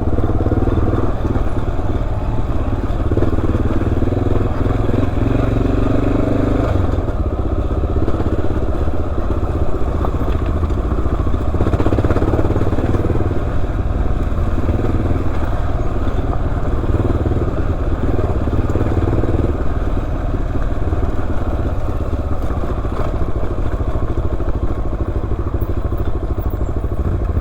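Dual-sport motorcycle engine running as it is ridden over a rocky trail, its pitch rising and falling with the throttle over a steady low rumble.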